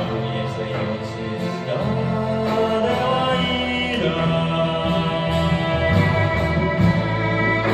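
Live band music: an instrumental passage of held chords and a melody with no words, with a violin coming in at the end.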